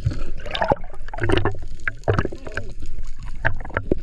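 Water splashing and sloshing around a sit-on-top kayak, with several short hollow knocks against the plastic hull.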